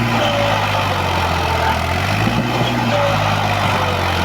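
Diesel tractor engine running at a steady speed, a low even drone.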